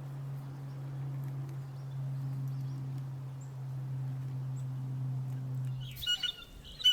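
A steady low hum that cuts off about six seconds in, then two short, harsh blue jay calls near the end.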